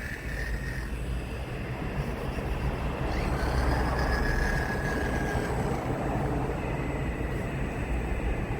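Radio-controlled scale model excavator running, a faint motor whine over rumbling noise that swells about three seconds in and eases after about five and a half seconds.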